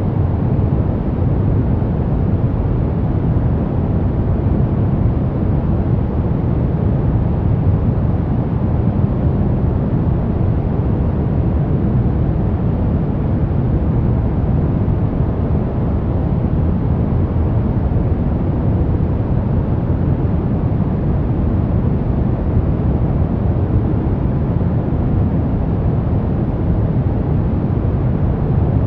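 A steady sleep-masking noise, a continuous deep hiss weighted toward the low end, with no changes or breaks.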